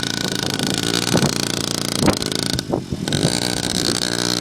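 Small dirt bike engine running steadily, with a few sharp knocks and a brief dip in sound a little past halfway.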